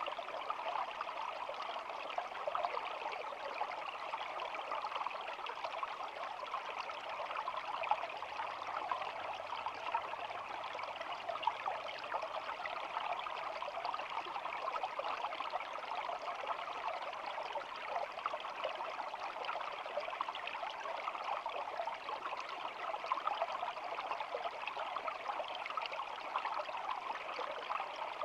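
Shallow stream flowing steadily, a continuous babbling and trickling of water with many small splashes.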